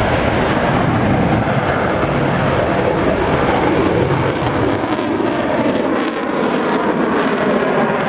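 Loud, continuous jet roar from a Eurofighter Typhoon's engines flying a display. The deep rumble thins about five to six seconds in.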